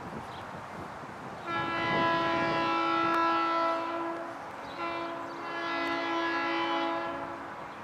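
Metra commuter train's horn sounding two long chord blasts, the first starting about a second and a half in and the second following after a short break.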